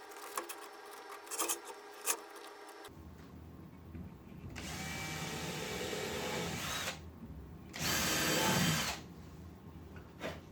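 Electric drill running in two bursts: a longer run of about two and a half seconds, then a shorter, louder one about eight seconds in. A few light clicks and knocks come before them.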